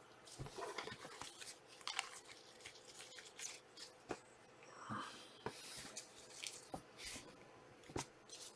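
Faint handling of trading cards and their pack wrappers: irregular light clicks, flicks and short rustles as cards are slid and sorted by hand.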